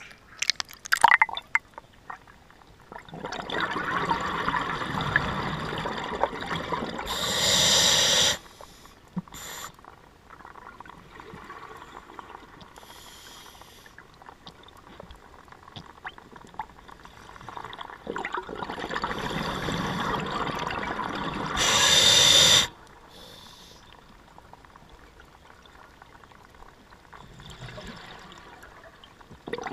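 Scuba diver breathing underwater through a regulator: two long, loud rushes of exhaled bubbles, each ending in a sharp hiss, about fifteen seconds apart, with quieter water noise and a few clicks in between.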